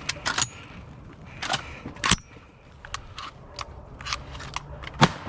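Several sharp, short cracks and clicks, the loudest about two seconds in and another near the end.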